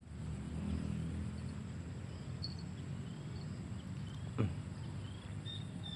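Outdoor ambience: a steady low rumble with a thin, steady high insect tone and a few faint bird chirps. A brief sharp sound stands out about four and a half seconds in.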